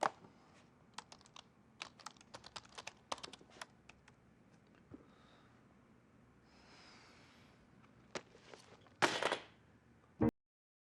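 A run of light, irregular clicks and taps, like typing. A louder brief noisy burst comes about nine seconds in, then the sound cuts off abruptly to silence.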